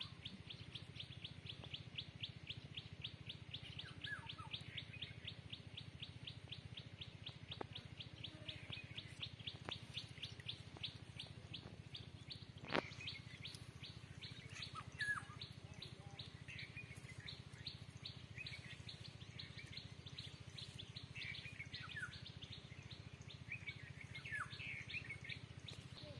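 Birds calling: a fast, steady run of short high chirps, about five a second, with other birds giving short falling calls now and then. A single sharp click about halfway through.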